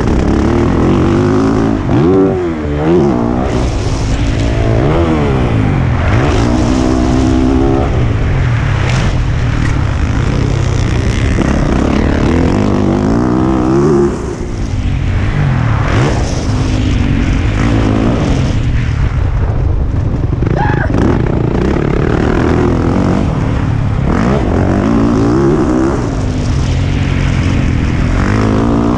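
2020 Yamaha YZ450F's single-cylinder four-stroke engine ridden hard, its pitch rising and falling over and over with throttle and gear changes. The throttle closes briefly about two seconds in and again just after halfway.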